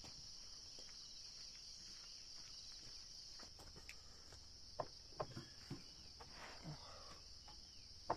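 Faint, steady high-pitched drone of insects chirring, with a few light clicks or knocks about five seconds in.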